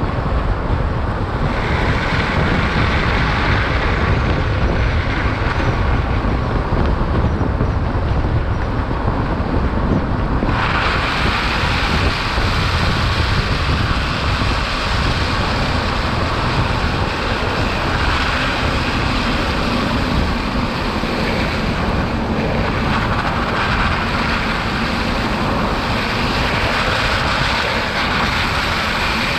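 Steady road and wind noise of a Tesla Cybertruck driving on a snowy highway: a low tyre rumble with a hiss over it, the hiss growing brighter about ten seconds in.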